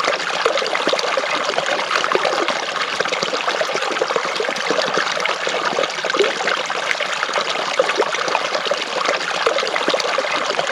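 A small stream babbling and trickling over rocks: a steady rush of water with constant small splashes and gurgles.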